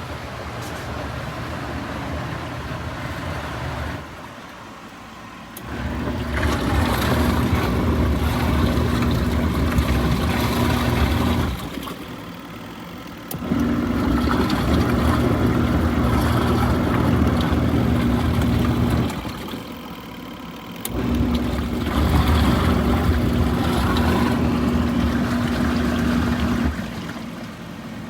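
Costway portable twin-tub mini washing machine running its wash cycle: the motor hums and churns the water in spells of five to six seconds, stopping for a second or two between them. This stop-start pattern is typical of the agitator reversing direction. The first few seconds are quieter.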